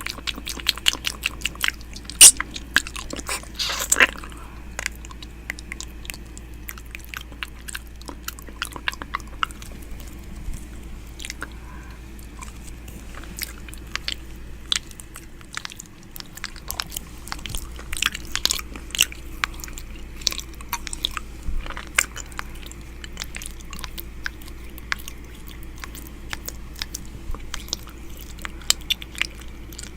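Close-miked ASMR 'ear eating' mouth sounds: irregular wet clicks and smacks, densest and loudest in the first few seconds, over a steady low hum.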